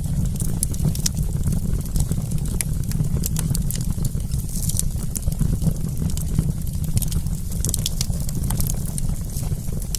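Wood campfire crackling: frequent sharp pops and snaps over a steady low rumble.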